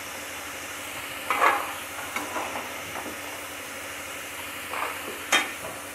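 Potato cubes sizzling steadily in hot oil in a kadai. A slotted metal spatula scrapes and clinks against the pan a few times as the fried potatoes are lifted out.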